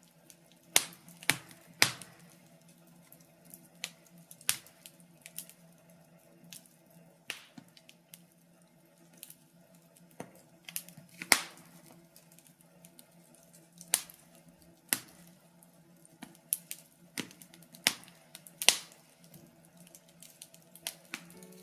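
Birch-wood fire in a fireplace crackling, with irregular sharp pops and snaps of varying loudness over a faint steady hum.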